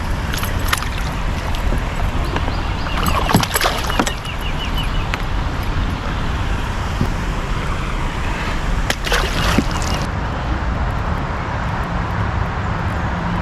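Steady rush of flowing creek water, with a few sharp clicks and a short run of ticks near the start.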